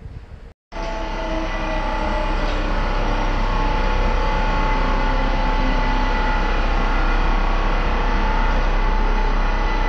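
Electric multiple-unit train running past along the platform at close range: a steady rumble of wheels with a faint steady whine in it. It starts abruptly about half a second in and grows louder over the next few seconds.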